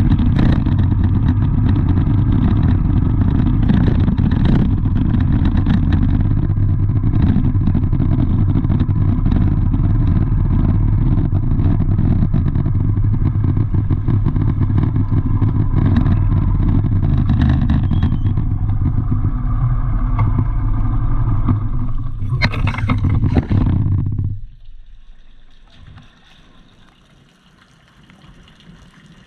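A motor vehicle's engine runs steadily and loud, with a deep low drone. It stops abruptly near the end, leaving only a faint background hiss.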